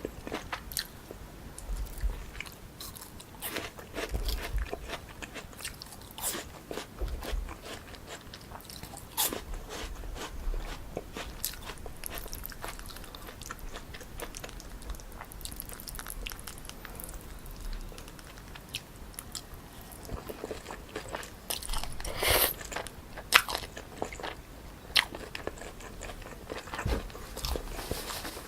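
Close-miked eating of spicy cold jjolmyeon noodles mixed with cucumber and fruit: repeated crunching bites and chewing, with a louder, longer crunch about 22 seconds in.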